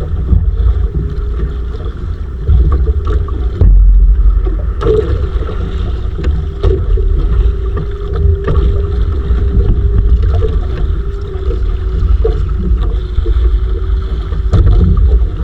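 Wind buffeting the microphone on a small fishing boat at sea, a heavy gusting rumble, with a steady motor hum underneath and a few knocks.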